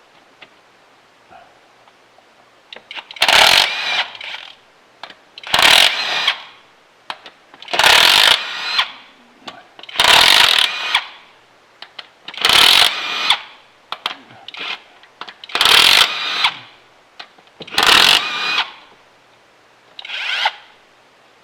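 Handheld power tool run in eight short bursts about two seconds apart, each about a second long, spinning out the rocker arm bolts on a 5.9 Cummins diesel; the last burst is shorter.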